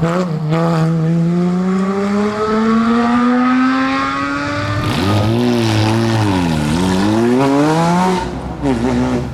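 Porsche Cayman GT4's flat-six engine under hard acceleration: its revs climb steadily for about five seconds, then fall suddenly, dip and climb again, before a brief lift-off near the end.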